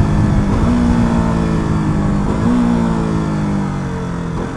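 KTM RC 200 single-cylinder engine during rev-matched downshifts under braking: the throttle is blipped twice, about half a second and two and a half seconds in, each giving a short rise in engine pitch, while the engine note otherwise falls as the bike slows. Wind rushes over the microphone.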